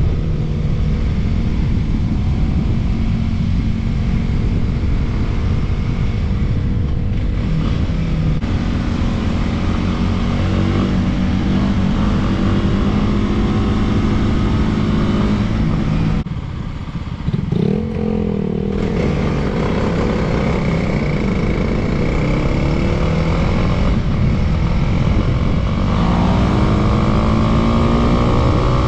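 Dirt bike engine running under changing throttle while being ridden, its pitch rising and falling. About sixteen seconds in the throttle is briefly closed and the engine drops off, then revs back up.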